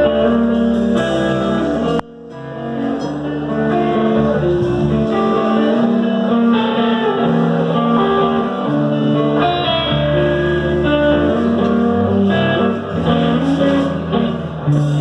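Live band playing an instrumental passage led by guitar. The sound cuts out abruptly about two seconds in, then builds back up.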